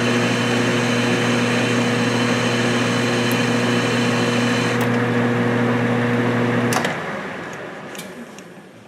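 Metal lathe running steadily through a turning cut in mild steel, a constant motor and gear hum with hiss. Nearly seven seconds in, the lathe is switched off and winds down, with a few clicks.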